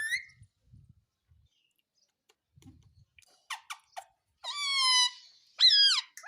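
Pet parrot calling: a brief shrill call at the start, then after a quiet stretch three quick sharp chirps, a longer drawn-out squawk and a call that bends up and down near the end. Faint low thumps come in the quiet middle.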